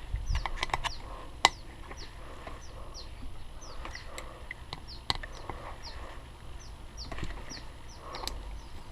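A small bird chirping over and over, short falling chirps about two to three a second, with scattered sharp clicks and knocks of handling.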